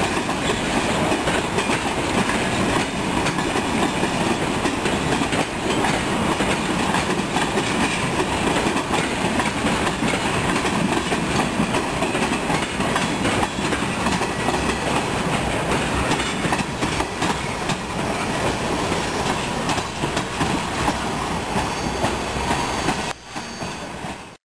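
Freight train cars rolling past in a steady, loud rumble of wheels on rail. The sound drops away and then cuts off suddenly near the end.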